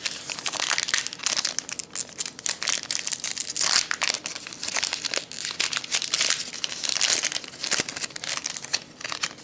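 Packaging of a baseball-card box crinkling and tearing as it is opened by hand: a dense run of irregular crackles, louder in a few bursts.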